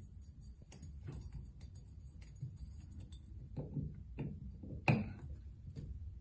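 Light metal clicks and taps of an Allen wrench working the set screw on a faucet handle, irregular, with one louder knock about five seconds in.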